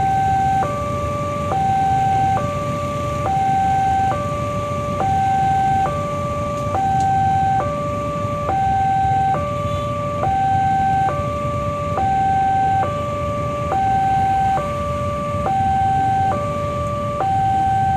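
Indonesian railway level-crossing warning alarm sounding: an electronic two-tone signal that alternates steadily between a higher and a lower tone, each held a little under a second, meaning a train is approaching and the crossing is closing. Under it, the low rumble of traffic waiting at the crossing.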